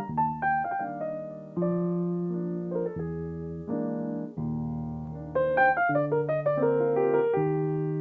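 Solo piano playing held chords broken by quick runs of notes.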